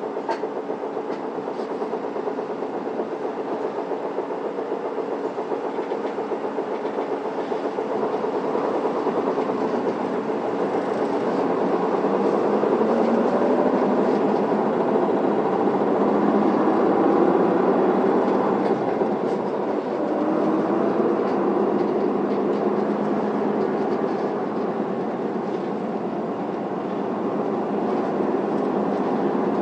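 Interior running sound of an Isuzu PKG Erga city bus on the move: the diesel engine and drivetrain drone steadily, rising in pitch and loudness as the bus picks up speed through the middle, then dropping back about two-thirds of the way through.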